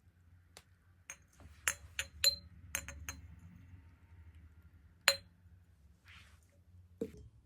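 Glassware clinking: a quick run of light clinks in the first few seconds, then one sharper clink about five seconds in.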